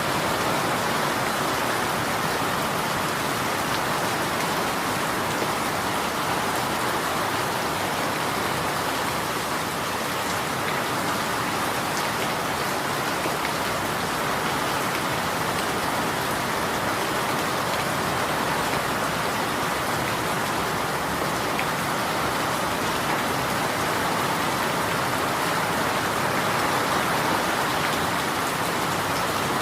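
Steady rain falling, an even hiss of drops on a surface with fine scattered pattering.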